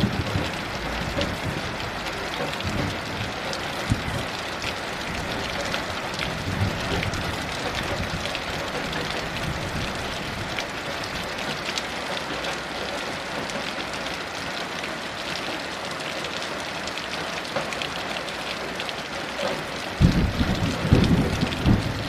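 Heavy rain falling steadily, with low rumbles of distant thunder; the strongest rumble comes near the end.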